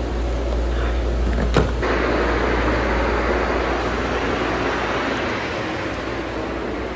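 Vehicle noise: a steady rumble with one sharp click about a second and a half in, then a wash of noise that swells and slowly fades.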